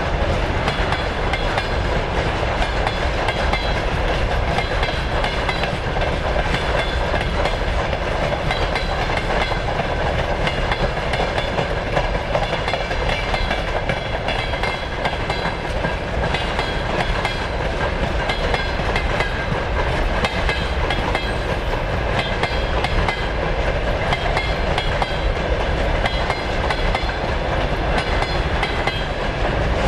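Freight train's container flat wagons rolling past close by: a steady noise of steel wheels running on the rails, with no let-up.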